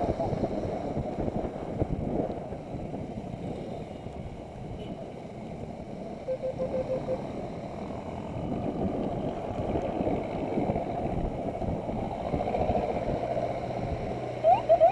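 Wind and rain noise buffeting a helmet camera's microphone on a moving motorcycle, a dense rumble with the bike running underneath. A short run of beeps comes about six seconds in, and a few short rising chirps near the end.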